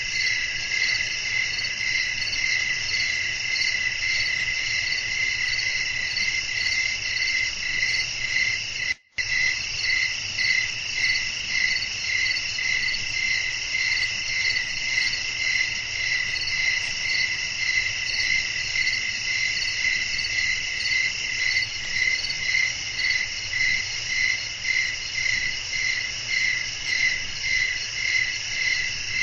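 A chorus of crickets chirping continuously in several high pitch bands, pulsing about one and a half times a second. The sound cuts out for an instant about nine seconds in.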